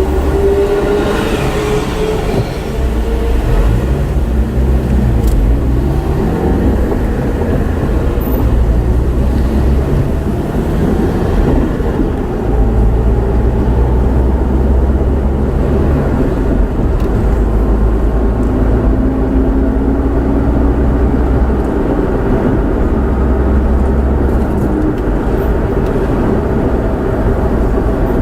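Moving motor vehicle: a steady low engine and road rumble, with the engine pitch rising as it speeds up several times.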